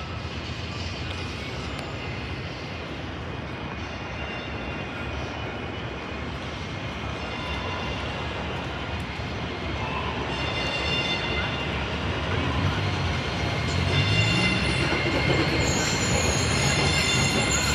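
A passenger train running on the rails, growing steadily louder as it approaches. High-pitched wheel squeal comes in partway through and strengthens toward the end.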